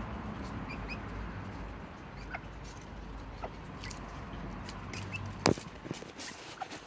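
Serama bantam chickens making a few soft, short clucks and peeps over a low background rumble, with one sharp knock about five and a half seconds in.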